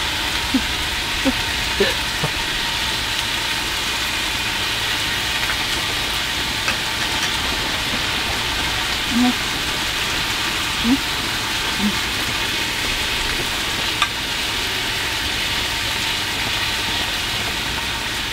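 Food sizzling steadily in a hot pan.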